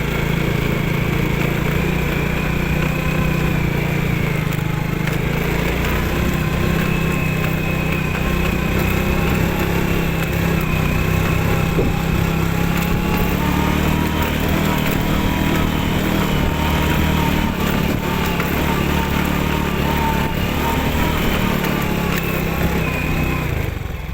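Yamaha Finn's small single-cylinder four-stroke motorcycle engine running steadily while riding, its pitch holding nearly constant, falling away right at the end.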